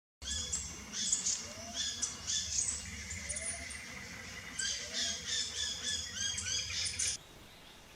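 Several wild birds calling at once, a busy mix of squawks and chirps, which stops abruptly near the end.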